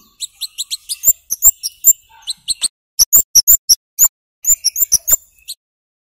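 Scarlet-headed flowerpecker (kemade) giving rapid runs of sharp, high 'cit' chirps with short gaps between the runs, stopping about five and a half seconds in.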